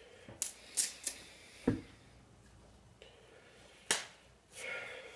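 Close-up eating and handling noises while eating bananas: a few sharp clicks and taps and one low thump, then a short rustle near the end.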